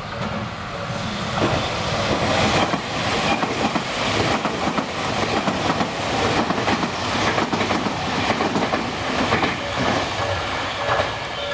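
Tobu Isesaki Line train passing over the tracks in a steady loud rush, with wheels clacking over rail joints.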